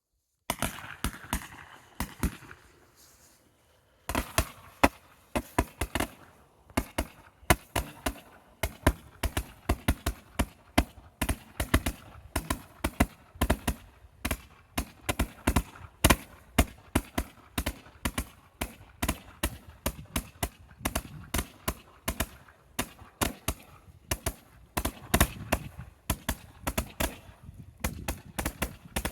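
Tracer barrage Roman candle firing: a short hiss with a few sharp pops at first, then from about four seconds in a rapid, uneven string of sharp shots, several a second, without pause.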